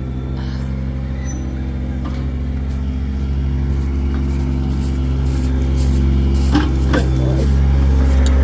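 Vehicle engine running steadily, growing gradually louder over several seconds, with a couple of short knocks about six and a half to seven seconds in.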